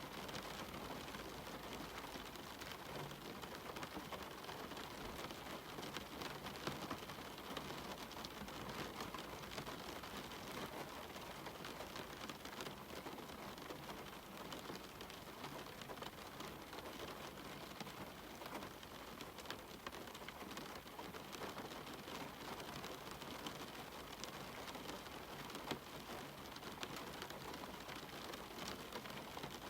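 Steady rain falling, a dense, even patter studded with many small ticks of single drops.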